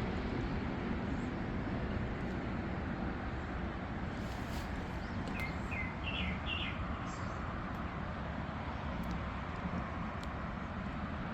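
A bird chirping a few short, quick notes about five to seven seconds in and again near the end, over a steady low rumble of outdoor background noise.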